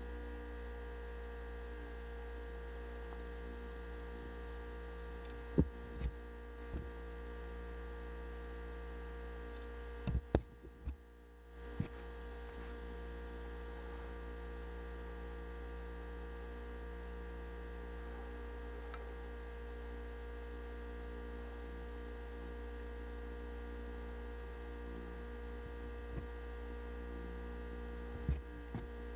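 Steady electrical hum made of several held tones over a low drone, broken by a few scattered short clicks or knocks, with a cluster about ten to twelve seconds in where the hum briefly drops away.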